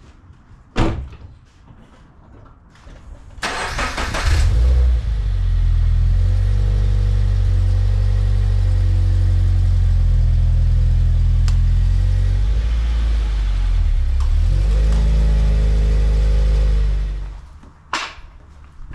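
Toyota 86's FA20 flat-four boxer engine cranked by the starter and catching, then idling steadily for about twelve seconds before being switched off and dying away. A sharp knock comes about a second in, and another near the end.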